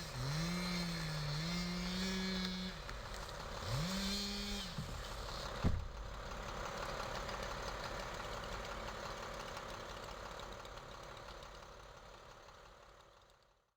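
Small petrol engine of tree-removal equipment running at high speed, its pitch dipping and recovering twice as it takes load. About two thirds of the way through the first half it drops off sharply and stops, leaving a wash of noise that fades away.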